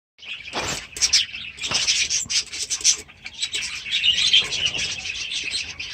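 A flock of budgies chattering in an aviary: many rapid, overlapping high chirps and warbles, without pause.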